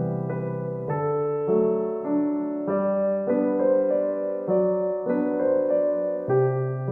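Soft background piano music, a slow, gentle piece with a new chord or note about every half second to a second.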